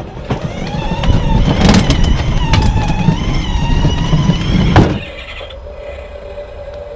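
Electric motor and gearbox of a child's ride-on toy car whining at varying pitch as it drives, with the plastic wheels rumbling on the ground. It stops abruptly about five seconds in, leaving a steady low hum.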